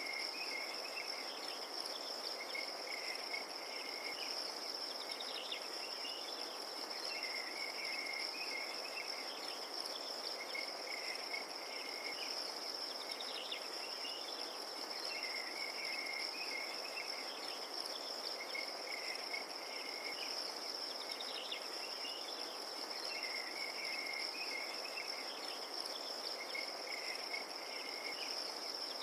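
Crickets trilling in one steady, unbroken high-pitched drone, with softer chirps coming back every couple of seconds over an even background hiss.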